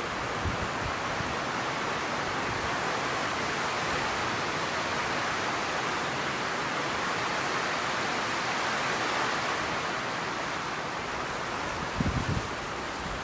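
Torrential rain pouring down in a steady, even hiss. Near the end, wind gusts start buffeting the microphone.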